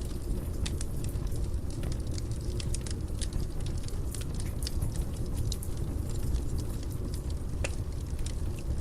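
Fire burning in a fireplace: a steady low rumble with irregular sharp crackles and pops, a few a second.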